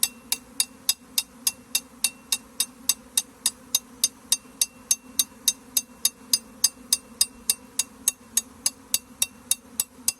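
Rapid, even clicking, about four sharp clicks a second, over a steady low hum that fits a honeybee swarm in flight. The clicks are the loudest thing.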